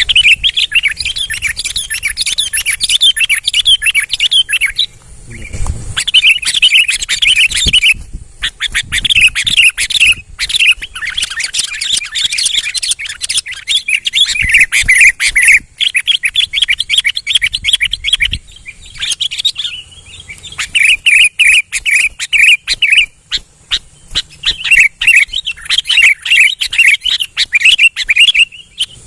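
Sooty-headed bulbul (kutilang) singing persistently, in fast runs of chirping notes, phrase after phrase with short pauses between them.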